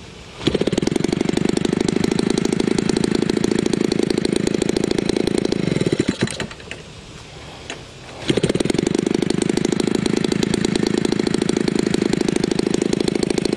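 Homelite 30cc two-stroke engine, converted for a giant-scale RC plane, run at full throttle at a steady pitch for about five seconds, dropped back to a much quieter idle for about two seconds, then opened up to full throttle again.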